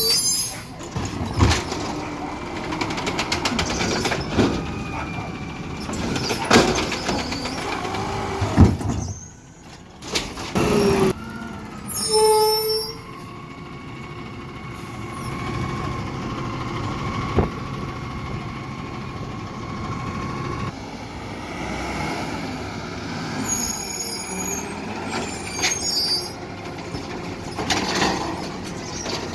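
Garbage truck at work: engine running, with repeated clanks and bangs and a short high squeal about twelve seconds in.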